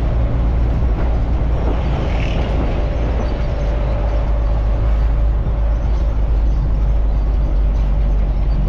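Truck running on the road: a steady low engine and road rumble with no breaks or changes.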